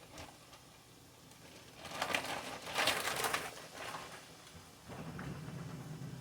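Rustling and clattering of plastic freezer bags being handled, with a few sharp clicks, for about two seconds in the middle; a steady low hum starts near the end.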